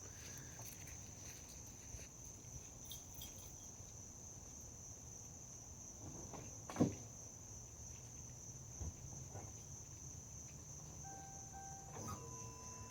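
Crickets trilling steadily in a quiet background, with a faint low hum, one soft knock about seven seconds in, and a faint steady tone starting near the end.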